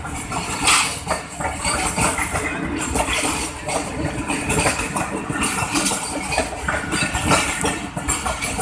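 Passenger coaches of an express train passing at speed, close by: a continuous rumble and rattle of the carriages, with a dense, irregular clatter of wheels on the track.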